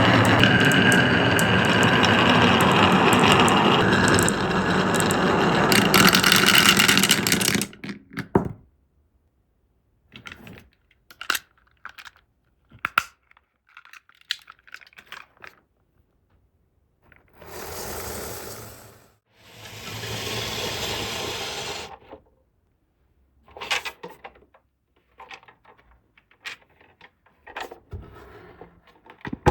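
Glass marbles rolling down a HABA wooden marble run. A loud, dense rolling rumble lasts about the first seven seconds, then scattered clicks and clacks follow as marbles knock against the wooden pieces, with two rolling runs of a second or two each past the middle.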